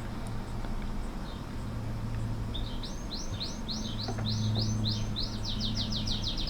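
A songbird singing a run of repeated sweeping high notes that start about two and a half seconds in and speed up into a fast trill near the end, over a steady low hum.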